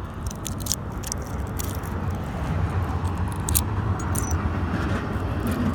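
Light clicks and scrapes of small metal finds being handled, over a steady low rumble.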